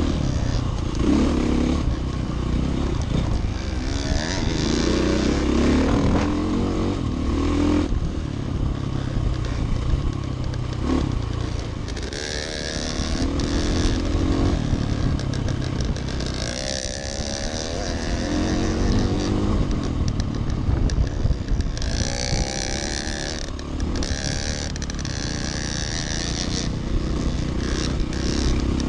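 Dirt bike engine heard from on the bike while it is ridden along a trail, the revs rising and falling again and again with the throttle.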